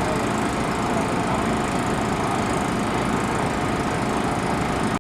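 Sprint car engine running with a steady, fast-pulsing drone.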